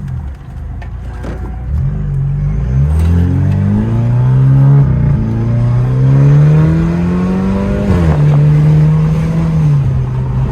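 Car engine accelerating hard through the gears, loud and climbing in pitch, with a sudden drop at an upshift about five seconds in and another about eight seconds in, then holding a steady note before easing off near the end.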